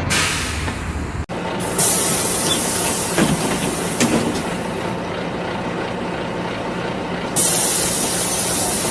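Vehicle noise, a steady rumble with a loud hiss that starts about two seconds in and another that starts near the end.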